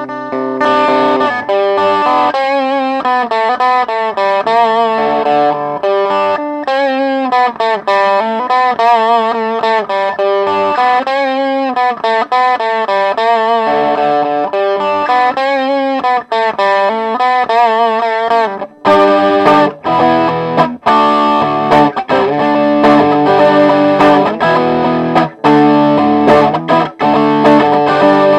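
Electric guitar played through a Behringer Vintage Tube Overdrive (TO800) pedal, with an overdriven tone. For the first two-thirds it plays a single-note melody with bends and vibrato. About 19 seconds in it switches to fuller chords with short stops between them.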